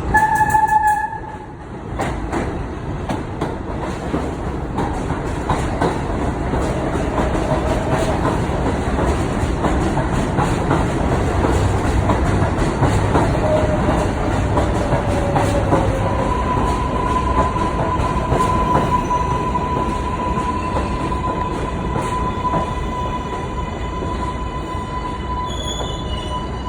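An R188 subway train's horn gives one short blast, then the train runs along the track with steady rumbling and clattering wheels. Its wheels squeal briefly a few times, then hold a steady high squeal for about the last ten seconds.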